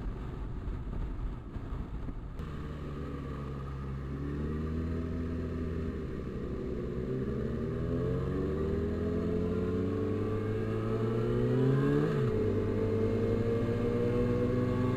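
Vehicle engine accelerating, its pitch climbing steadily for several seconds, then dropping sharply about twelve seconds in, as at a gear change, and running on at a steady pitch.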